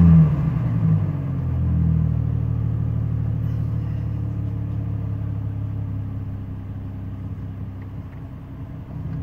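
GM Vortec 4200 4.2-litre inline-six engine idling steadily, with its throttle body and idle air control motor freshly cleaned, running smoothly without stumbling.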